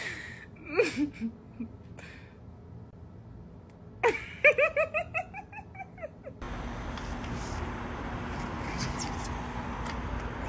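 A short burst of laughter, about six quick pitched pulses, followed by a steady background hiss.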